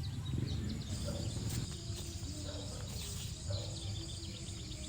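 Outdoor ambience of insects chirring in a steady high band, over a low background rumble, with a few faint short calls mixed in.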